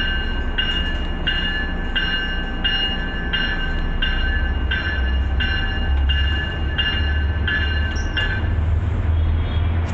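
Commuter rail locomotive bell ringing steadily, about thirteen dings some 0.7 s apart, stopping about eight seconds in, over the low rumble of the diesel locomotive.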